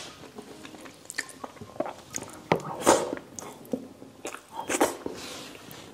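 Close-miked chewing of a mouthful of pork asado and rice: irregular wet mouth noises and sharp clicks, the loudest about three seconds in and again near five seconds.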